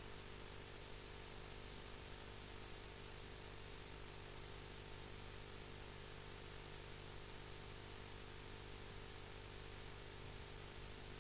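Steady hiss with a low hum and a thin high whine underneath, unchanging throughout, with no distinct calls or events.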